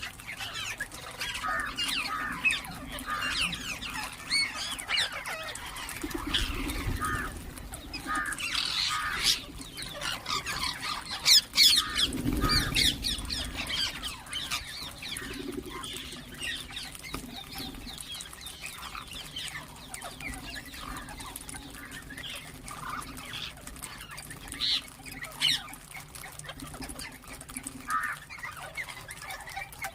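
Ringneck parrots chattering, with many short chirps and squawks throughout and a louder run of squawks about halfway through. A couple of low dull thuds sound in the first half.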